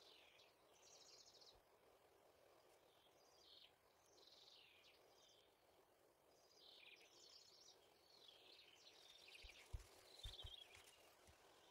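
Faint songbird singing: a run of short, high chirping phrases repeated every second or so over a faint steady hiss. A few soft low knocks come near the end.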